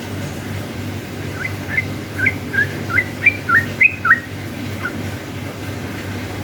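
Yellow-vented bulbul (trucukan) singing a quick run of about ten short, upward-sweeping notes lasting about three seconds, with one more note shortly after, over a steady low hum.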